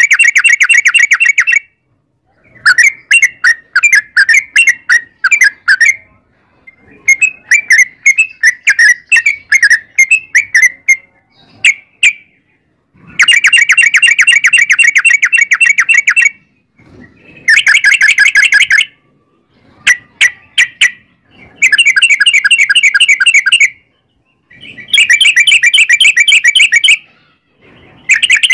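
Yellow-vented bulbul (trucukan) song: loud bursts of rapid, rolling chattering notes, each burst lasting a couple of seconds, repeated about nine times with short pauses between.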